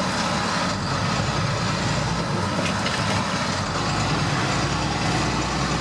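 International 4300's 7.6 L DT466 inline-six diesel running steadily, with a low rumble that shifts a little about a second in and again past the middle.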